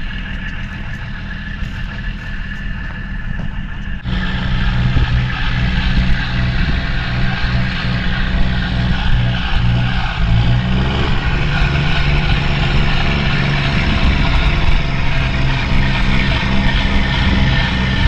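Semi truck's diesel engine running with a steady drone, growing suddenly louder about four seconds in and rising a little in pitch about ten seconds in.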